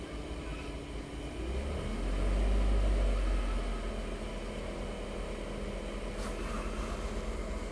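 Mitsubishi Outlander's petrol engine idling, a steady low hum that swells briefly about two seconds in.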